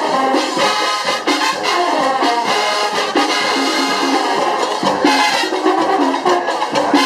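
Band playing at full volume: trumpets and trombones carry a brisk tune over steady drum hits.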